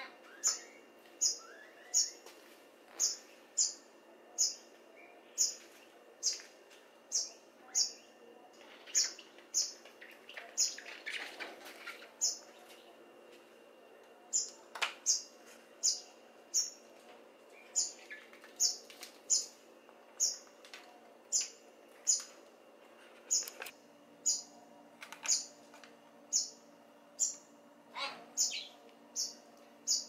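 Juvenile rails giving short, high-pitched peeps over and over, about one or two a second and often in pairs. A brief rustling scuffle comes about ten to twelve seconds in.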